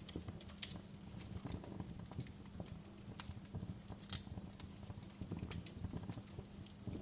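Wood fire crackling in a fireplace: irregular sharp pops and snaps, a few louder ones, over a steady low rumble of the burning logs.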